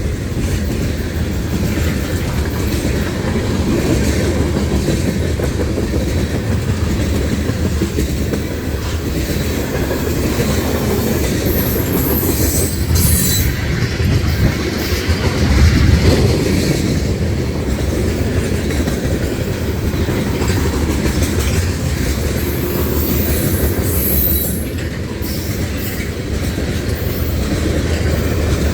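Freight train cars rolling past close by: a steady heavy rumble with the wheels clacking over the rail joints. A brief high wheel squeal comes about twelve seconds in and again near twenty-four seconds.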